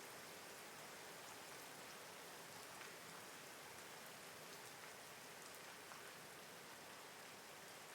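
Faint, steady rain falling, an even hiss with scattered light ticks of single drops.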